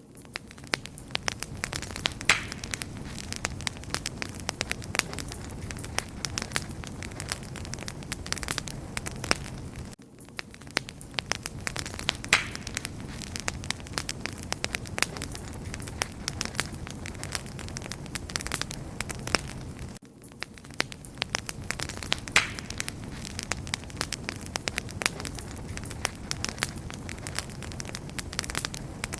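Wood fire crackling steadily: dense, irregular pops and snaps over a low, steady rumble of flame, dipping briefly in level about every ten seconds.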